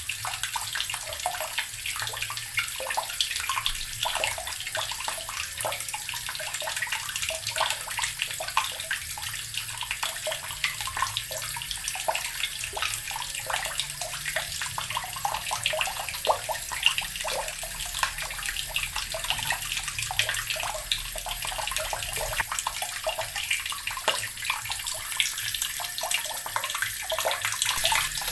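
Water running steadily from a tap, splashing into a basin below with a constant hiss and many small splashes.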